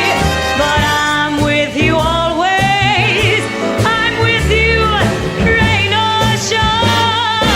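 Orchestra playing with brass, and a woman singing over it with vibrato and gliding notes.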